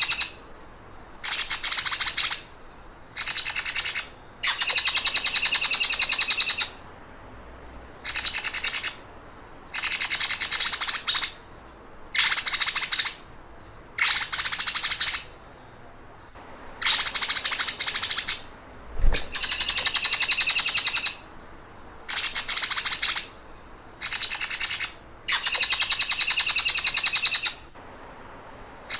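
Songbird giving the rapid, dry 'sewing machine' trill: about a dozen fast trills, each a second or two long, repeated with short pauses, from a masteran song-tutoring recording for cage birds.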